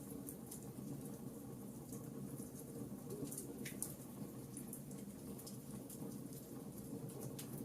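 Wood fire crackling: many irregular sharp pops and snaps over a steady low rumble of burning, with one stronger pop a little before the middle.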